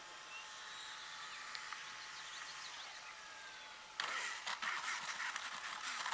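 Faint outdoor background with a few thin, faint chirps. About four seconds in, a louder rustling, clicking noise starts abruptly.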